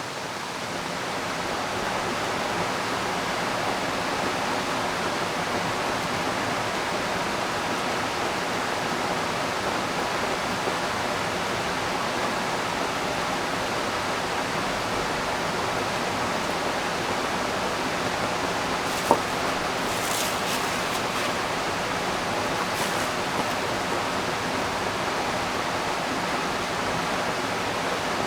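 A river rushing steadily, a constant hiss of flowing water that swells in over the first couple of seconds. A single sharp click comes about nineteen seconds in, with a few brief faint high hisses just after.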